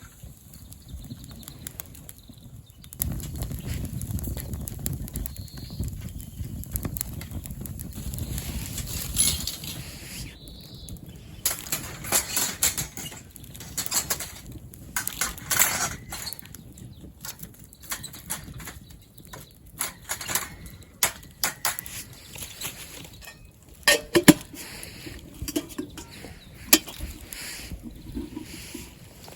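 Wood campfire crackling with many sharp, irregular pops and snaps. A low rushing sound runs for several seconds near the start.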